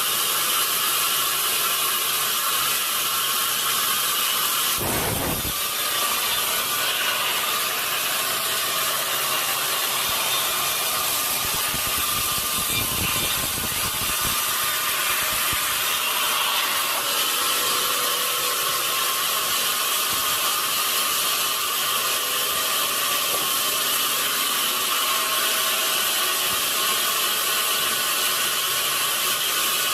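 Sawmill saw running steadily and cutting through wood, with a brief knock about five seconds in and a deeper rumble from about twelve to fourteen seconds.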